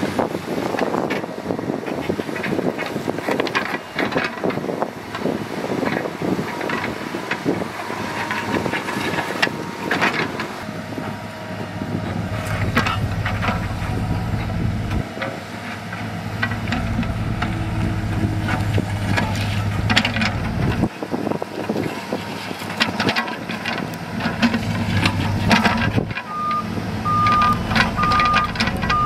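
Diesel engines of heavy construction machinery running, with clattering and knocking throughout and a deeper engine drone setting in about halfway through. Near the end a reversing alarm starts beeping at an even pace, about two beeps a second.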